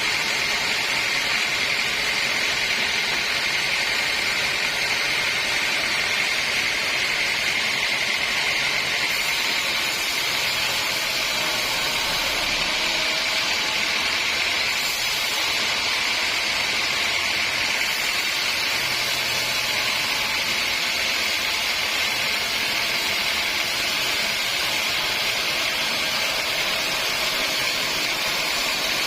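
Sawmill saw running steadily: an even, loud hiss with a constant high-pitched whine.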